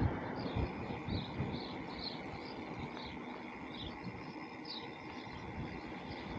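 A bird chirping, a run of short, slightly falling notes about two a second, over a low rumble of wind on the microphone.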